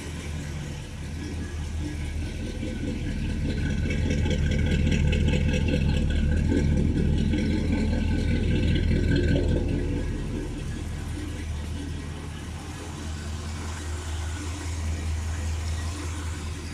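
Chevy 350 small-block V8 running through Hooker headers and a dual exhaust with Flowmaster Super 44 mufflers, a steady deep rumble just after its first start in years. It runs louder for several seconds in the middle, then settles back to a lower idle.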